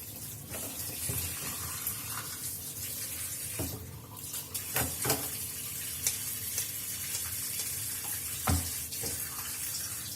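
Kitchen tap running into a sink, with a few short knocks and clatters about four, five and eight and a half seconds in.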